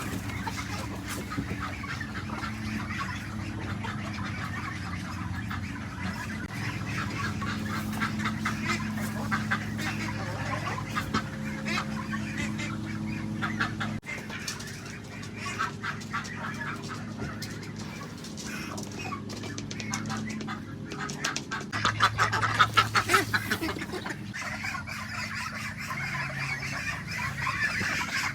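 A flock of poultry clucking and calling without pause, with a louder, quicker run of calls about 22 seconds in. A steady low hum runs underneath.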